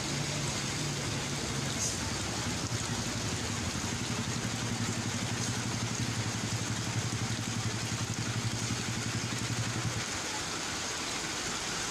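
Motor vehicle engine running steadily with road noise, its low hum dropping slightly in pitch about two seconds in and fading out about ten seconds in.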